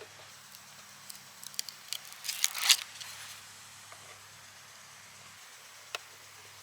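Handling sounds from fitting a peel-and-stick replacement glass to a car's side mirror: scattered light clicks, then a short crackling rustle about two and a half seconds in. A low steady hum runs underneath and stops about five seconds in.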